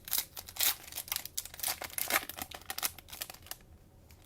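Plastic cello wrapper of a trading-card pack being torn open and crinkled: an irregular run of sharp crackles that thins out in the last second.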